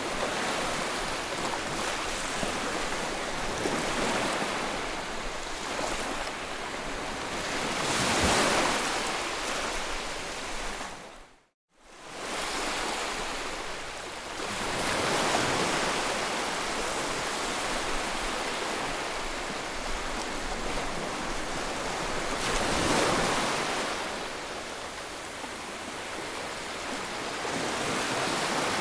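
Ocean surf: a steady wash of waves, swelling as waves break roughly every seven seconds. About eleven and a half seconds in, the sound cuts out to silence for a moment and then fades back in.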